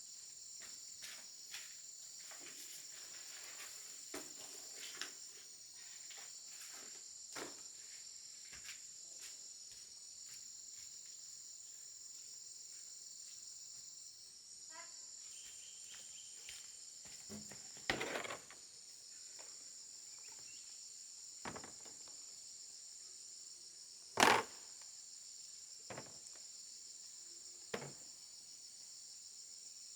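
Steady high chirring of insects, with scattered knocks and rustles over it; the sharpest knock comes about two-thirds of the way through.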